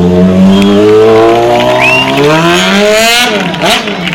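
Stunt motorcycle's engine revving, its pitch climbing steadily for about three seconds, then dropping and blipping up and down quickly near the end.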